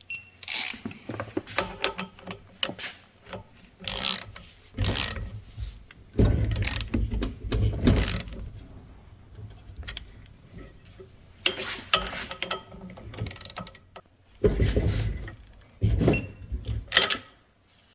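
Hand ratchet clicking and steel engine parts clinking in irregular spells, as connecting rods are bolted onto the crankshaft of a Porsche 912 engine.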